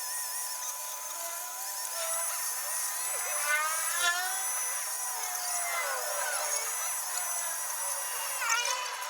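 Small handheld power tool, like a drill or rotary tool, running steadily, its pitch wavering and sliding as it works.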